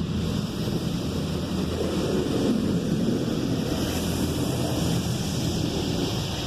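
High-pressure water jets of a Washworld Razor touchless car wash spraying over a car, a steady rushing hiss of water with a low steady hum underneath. This is the rinse that strips the pre-soak off the car.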